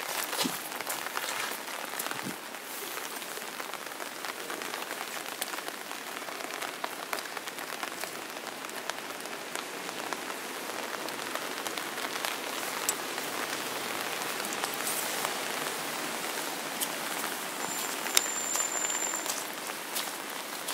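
Steady rain falling: an even hiss with many small scattered ticks of drops. A brief thin high tone sounds near the end.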